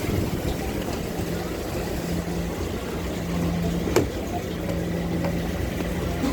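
An engine running steadily with a low hum, likely a fishing boat's motor in the harbour, with one sharp click about four seconds in.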